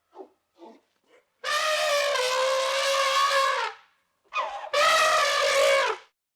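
A farm animal calling: a few short, faint calls, then two long, loud, trumpet-like calls held at a steady pitch, with a short call between them.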